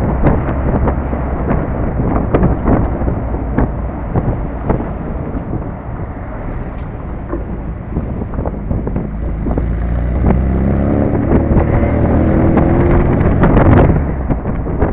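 A 1967 MGB's 1.8-litre four-cylinder engine running as the car drives along, under heavy wind buffeting on the microphone. From about ten seconds in the engine note rises and grows louder as the car accelerates.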